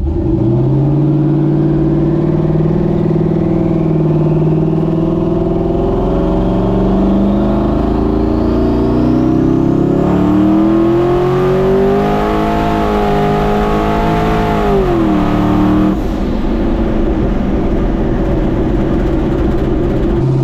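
Twin-turbo cammed LS V8 in a Ford Dentside pickup pulling hard: the engine note climbs steadily for several seconds and holds high, then drops sharply about fifteen seconds in as the throttle closes and settles to a steady lower note.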